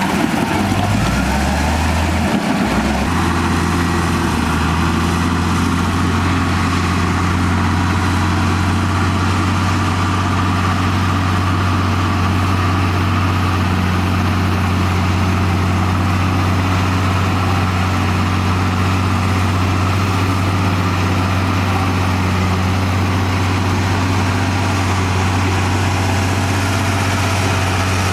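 Komatsu D58E crawler bulldozer's diesel engine running with a steady deep hum; the low sound is uneven for the first couple of seconds, then holds steady.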